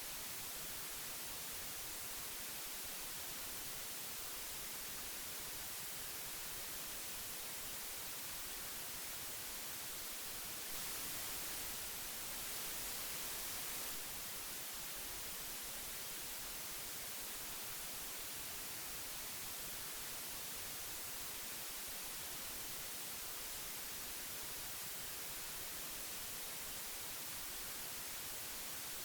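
Old audio tape hiss: a steady high-pitched hiss that steps up slightly in level for about three seconds around eleven seconds in.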